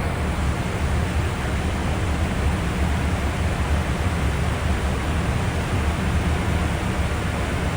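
Steady rushing noise of airflow and engines inside a Boeing 777 in flight, deep and even with no change.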